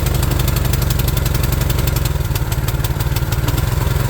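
Predator 212 single-cylinder engine, brand new and governed stock, running steadily on choke at full throttle with an even firing beat, freshly cold-started for its break-in run.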